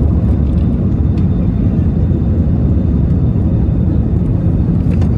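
Airbus A320 cabin noise: a steady low rumble of the jet engines and airflow, heard from inside the aircraft.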